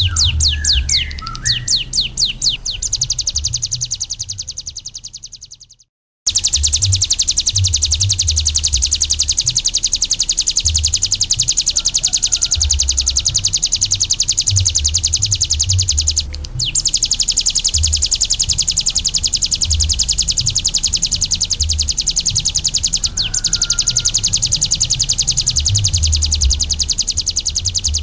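Ciblek gunung (a prinia) singing a very fast, high, unbroken trill of repeated notes. The song fades out at about five seconds, cuts back in abruptly a second later, and breaks briefly twice more. Low thumping rumbles run underneath.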